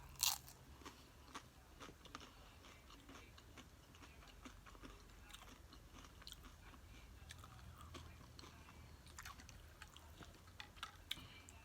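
A person chewing loaded nacho tortilla chips, heard faintly: one sharp crunch right at the start, then soft scattered crunches and small mouth clicks, a little stronger near the end.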